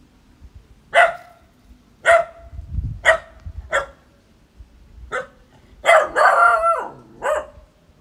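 Puppy barking playfully: a string of short single barks about a second apart, with one longer call that wavers in pitch just after six seconds.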